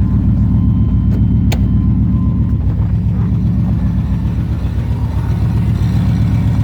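1995 Chevrolet Suburban's fuel-injected engine running steadily just after a hard cold start in −5 °F weather.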